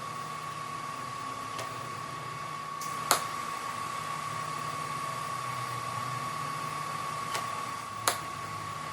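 Steady machine hum and hiss with a constant high whine, broken by two sharp clicks about five seconds apart and two fainter ticks.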